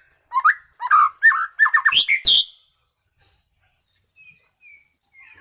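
White-rumped shama (Medan murai) singing: a fast, loud run of whistled notes sliding up and down for about two seconds, then a few faint soft notes.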